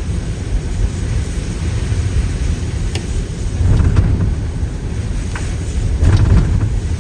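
A car driving: a steady low rumble of road and engine noise, with a few faint clicks.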